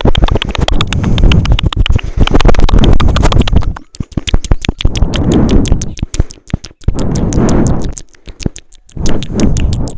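Rapid close-up tapping and scratching right at the microphone: many quick sharp clicks, about eight to ten a second, in bursts with short breaks.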